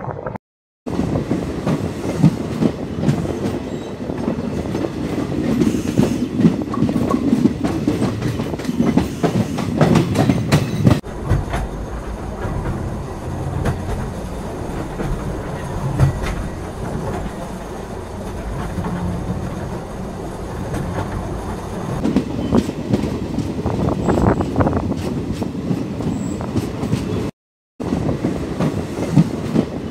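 Passenger express train running along the track, heard from the coach doorway: a steady rumble with the clickety-clack of wheels over rail joints. The sound drops out briefly just after the start and again near the end.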